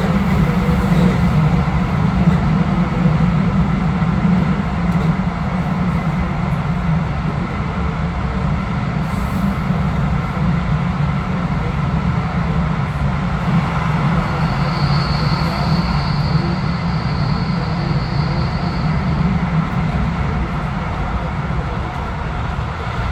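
Passenger train running: a steady, continuous rumble of wheels on rails, with a faint high-pitched whine for a few seconds past the middle.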